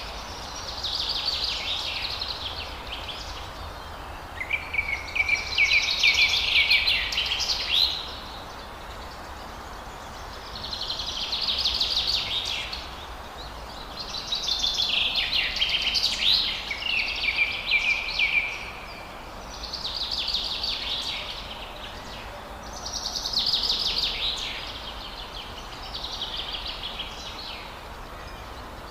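Forest songbird singing high-pitched phrases of two to three seconds, about eight of them with short gaps between, over a steady background hiss.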